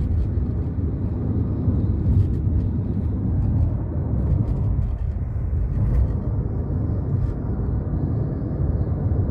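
Steady low road and engine rumble of a car driving along a highway, heard from inside the car.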